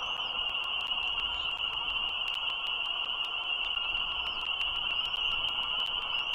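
A steady, high-pitched chorus of calling frogs, with a few faint short chirps above it and a constant low hiss of background noise.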